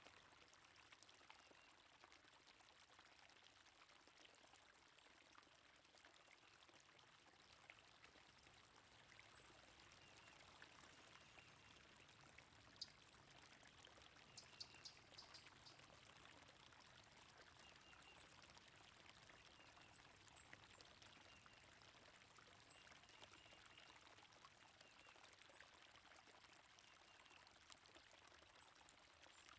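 Faint, steady flow of water in a stream, with scattered short high bird chirps over it and a quick run of sharp chirps about halfway through.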